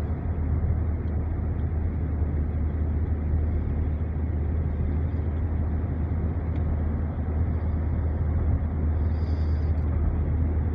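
Steady low road and engine rumble inside the cabin of a moving SUV.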